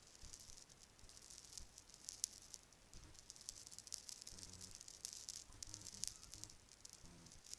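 Bracelets being handled close to the microphone: a dense, irregular run of soft small clicks and rattles.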